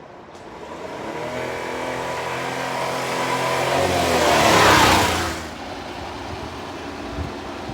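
A motor vehicle passing close by: engine hum and road noise build for about four seconds, peak, then fall away quickly.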